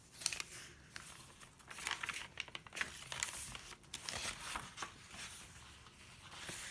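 Pages of a handmade junk journal, tea-stained and vintage papers, being turned and handled: irregular paper rustling and crinkling.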